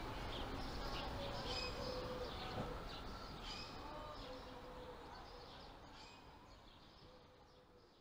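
Birds chirping and whistling over a steady background hiss, fading out gradually over the second half.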